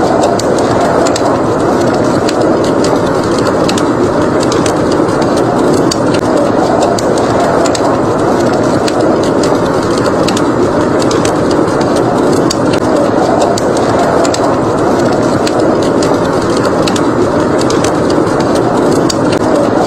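Wood fire crackling in a fireplace, with frequent small, sharp pops over a steady rushing of blizzard wind.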